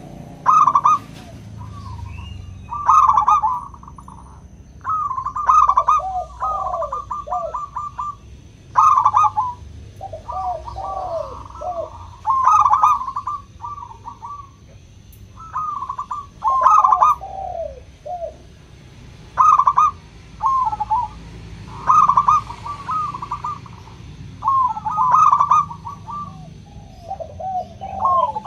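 Zebra dove (perkutut) cooing in repeated phrases about every two to three seconds. Each phrase is a quick run of rolling notes, often trailing into a few lower notes.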